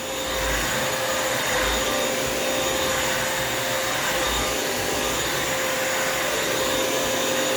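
Bissell vacuum-mop running steadily as it mops the floor, a constant motor noise with a steady whine.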